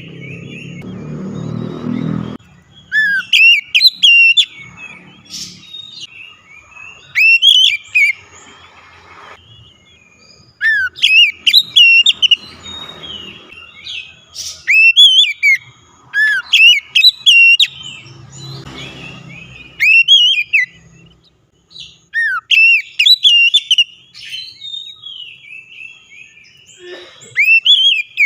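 Oriental magpie-robin (kacer) singing: loud, clear whistled phrases of rising and falling notes, repeated in short bursts every second or two. A low rumble sits under the song briefly near the start and again about two-thirds through.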